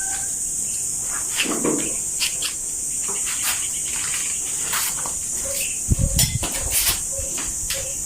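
Steady high-pitched drone of insects such as crickets, with scattered light clicks and a few low knocks about six to seven seconds in.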